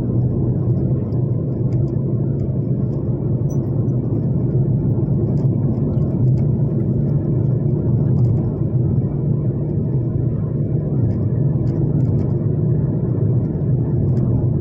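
Steady low rumble, even in level, with a few faint clicks.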